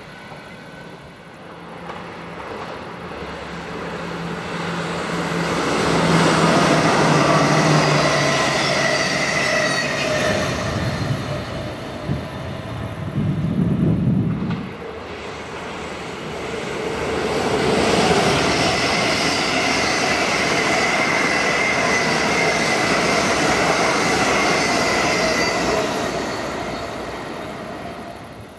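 Trains passing on the line at speed, in two long swells. One train's rail noise builds and fades over the first third, with a steady low hum in it. After a brief low rumble about halfway, a second train passes with steady whining tones over its rail noise, fading near the end.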